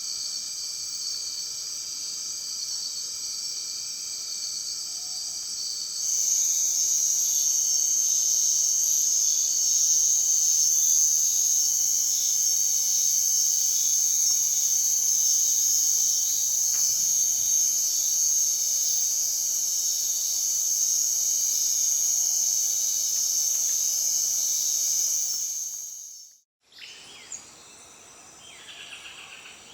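Rainforest night chorus of insects such as crickets: a steady, shrill, high-pitched drone of several layered tones, stepping louder about six seconds in. It cuts off near the end, giving way to quieter ambience with short bird chirps.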